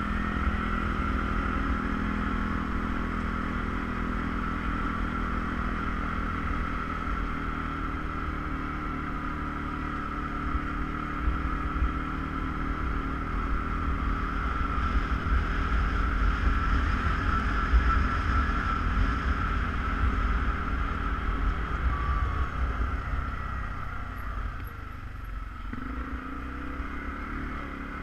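ATV engine running steadily under way, a continuous drone with low rumble. The engine note drops off briefly about three-quarters of the way through, then picks up again near the end.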